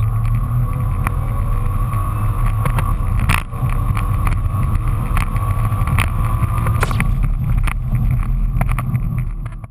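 Nissan GT-R R35's twin-turbo V6, tuned to 630 hp, pulling hard at full throttle, heard from inside the cabin over heavy road and wind noise. Partway through, the revs drop with an upshift.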